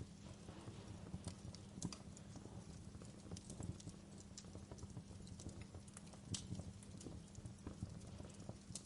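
Wood fire burning in a fireplace: irregular sharp pops and snaps from the logs over a steady low rumble of the flames, with a louder pop about six seconds in.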